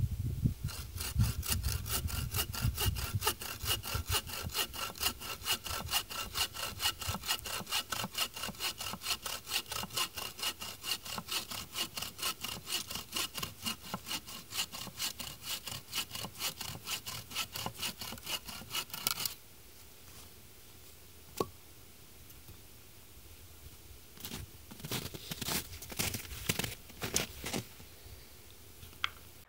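Hand saw cutting through wood in steady, regular back-and-forth strokes. It stops about two-thirds of the way through, then a single click, then a short burst of a few more strokes near the end.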